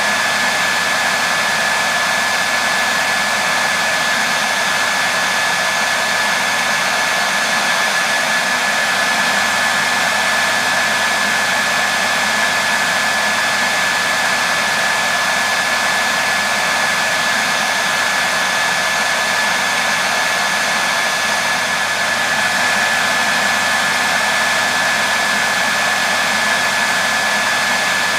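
Electric hair dryer running steadily: an even blowing rush with a steady high whine from its fan motor.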